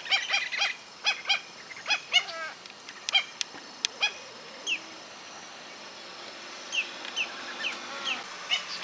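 Birds calling: a quick run of short nasal honking calls that thins out after about three seconds, then a few short high peeps sliding down in pitch near the end.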